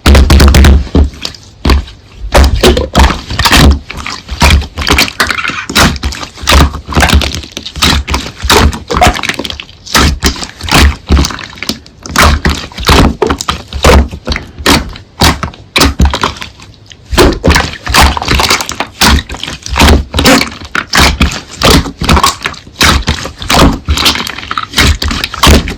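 Slime being pressed and squeezed by hand, making a quick, irregular run of sharp pops and crackles.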